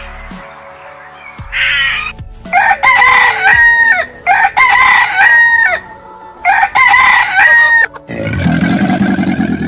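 A rooster crowing three times in a row, each crow rising, holding and falling away. About eight seconds in, the crowing gives way to a loud, low, rough rumble.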